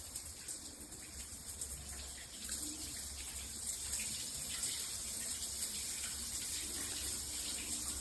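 Water running from a 12-inch square rain shower head: a steady spray hiss that grows a little louder about two and a half seconds in.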